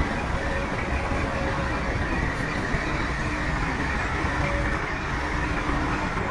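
Crawler bulldozer working: its diesel engine running steadily under a continuous clatter of steel tracks.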